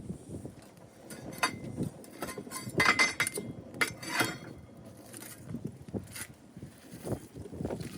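Dishes and glassware clinking and knocking in scattered light strikes, the loudest a ringing clink about three seconds in.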